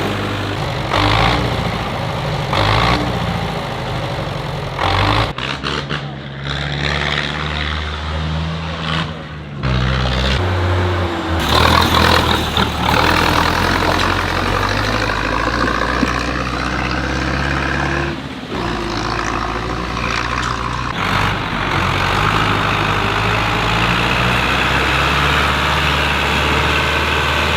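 Tractor engines running, heard as a run of short clips that cut from one engine to another. The low steady engine note changes abruptly at each cut.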